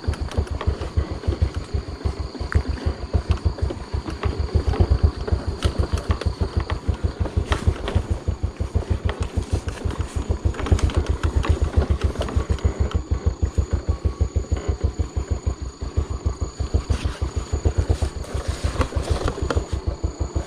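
Small motorcycle engine running slowly under load with an even, fast chug, picking its way over rough ground.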